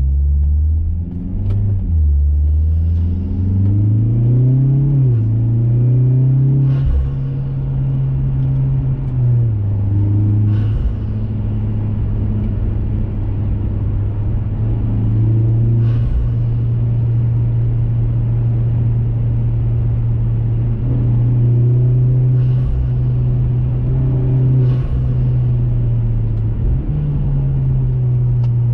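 2021 Mazda 3 Turbo's turbocharged 2.5-litre four-cylinder through a CorkSport 80 mm cat-back exhaust, driving. The engine note climbs under acceleration over the first few seconds, drops about nine seconds in, then holds a steady low drone at cruise, with a few faint knocks.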